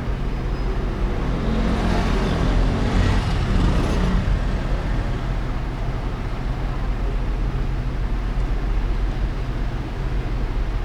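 City street traffic: a steady low rumble of engines and tyres, with a vehicle passing close by that swells up and fades away about two to four seconds in.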